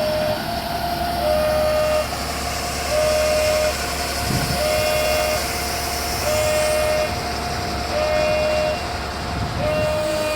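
Two-tone warning signal, a lower and a slightly higher steady tone taking turns about every 1.7 seconds, over a constant low rumble.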